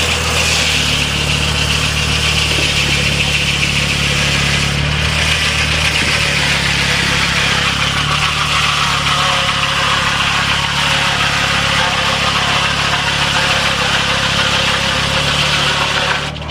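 Sawmill's engine running steadily at idle, with a higher hiss or whine that comes in at the start and slowly sinks in pitch.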